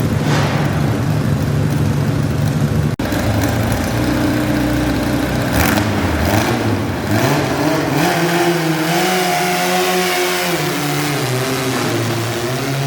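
Modified garden pulling tractor engine running hard, its pitch climbing about eight seconds in, holding briefly, then dropping back.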